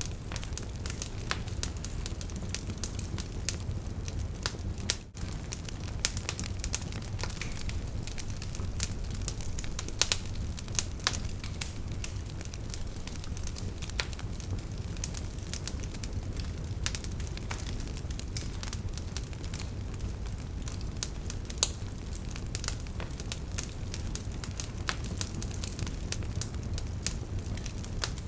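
Wood campfire crackling: frequent, irregular sharp pops and snaps of burning firewood over a steady low rush of flame.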